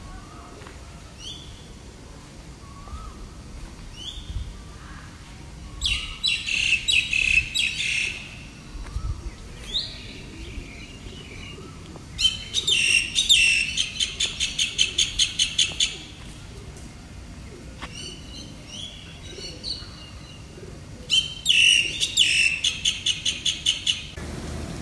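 Birds singing: short rising calls every few seconds, and three loud bouts of fast repeated high notes, the longest about halfway through.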